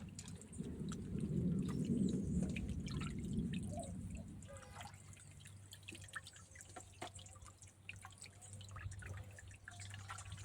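Water sloshing and trickling as raw chicken pieces are washed by hand, louder for the first few seconds, then quieter with scattered drips.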